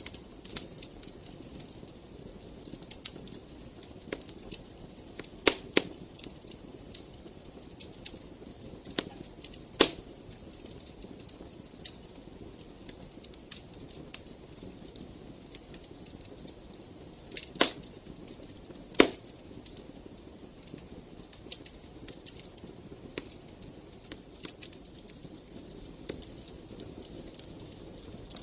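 Wood fire crackling in a fireplace: a steady run of small snaps over a low hiss, with a few louder pops.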